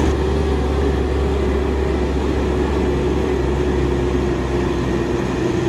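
Steady engine-like drone of a toy truck being run, a low hum with a steady tone above it that holds level throughout.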